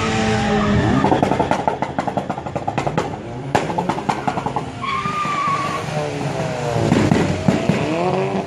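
Car engines revving hard, with a rapid stuttering run of pulses for a few seconds, then revs sweeping up and down. A brief tire squeal comes about five seconds in.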